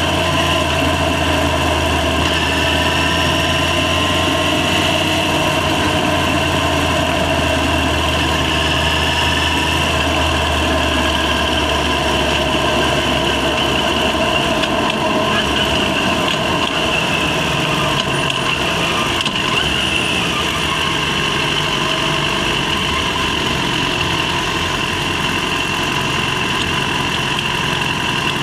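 Yamaha FZ6 inline-four engine running steadily on the move. Its deep low note fades out about halfway through, leaving the higher engine tones.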